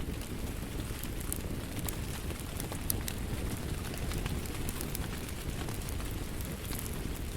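Wood fire crackling steadily: a low rumble of the flames with scattered sharp pops and snaps of burning wood.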